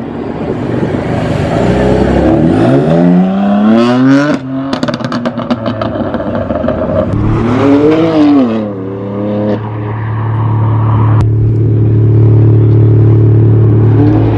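Straight-piped turbocharged four-cylinder car engine revved twice, climbing and dropping back, with a run of pops and crackles after the first rev. It then settles to a steady idle, with a sharp click partway through, and starts to rise again near the end.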